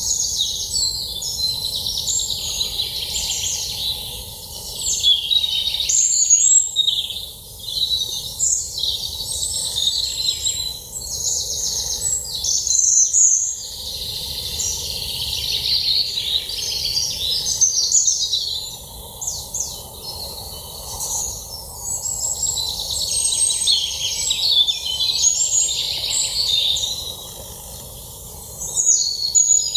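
Several birds singing and calling at once: a dense, continuous chorus of overlapping high chirps and trills.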